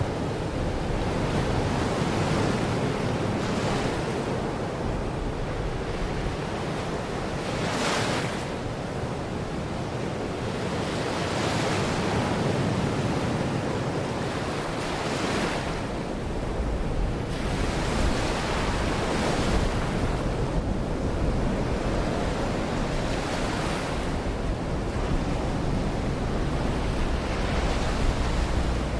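Waves breaking and washing on a Baltic Sea shore, surging every few seconds, with wind rumbling on the microphone, heavier in the second half.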